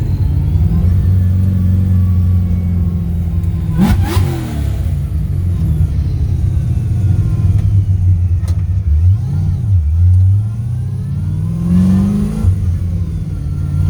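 Supercharged 6.0-litre LS V8 of a 1971 Firebird pulling hard under throttle, heard from inside the car. The engine pitch climbs, then drops sharply with a crack about four seconds in. It dips and climbs again from about nine seconds and drops suddenly near the end.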